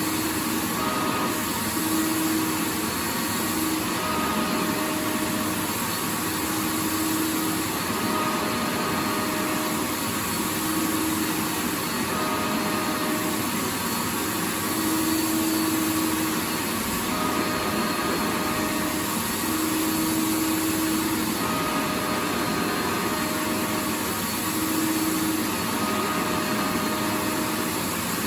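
Vacuum cleaner running steadily, a constant rushing noise with a motor hum that comes and goes every second or two.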